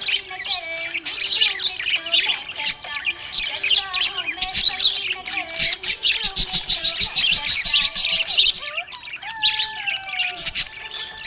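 Budgerigar chirping and warbling steadily, a jumble of short chirps and squawky notes with a fast run of clicky chatter about halfway through.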